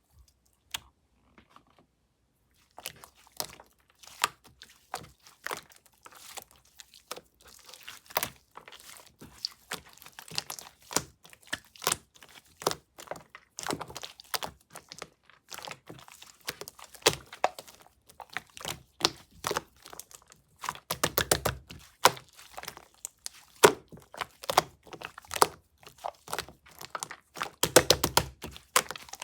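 Slime worked by hand, giving a dense stream of crackling, popping clicks. The first few seconds are nearly quiet, and there are quicker runs of pops about 21 and 28 seconds in.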